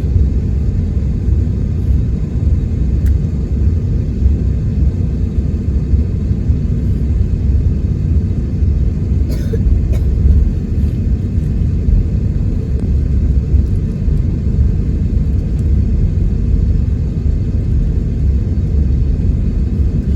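Steady low rumble inside the cabin of an Airbus A321neo taxiing, its engines at taxi power, with a faint click or two about halfway through.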